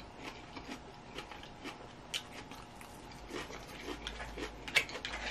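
Close-up chewing of a mouthful of crisp lettuce salad: irregular small crunches and wet mouth clicks, with a sharper crunch about two seconds in and a few more near the end.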